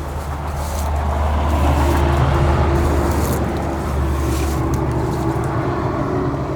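A motor vehicle running close by: a steady low engine hum that builds to its loudest about two seconds in, then eases off slightly.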